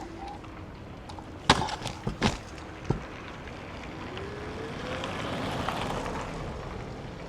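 City street noise heard from a moving electric scooter: a quick cluster of sharp knocks about a second and a half in, then a vehicle passing with a rising engine tone around the middle.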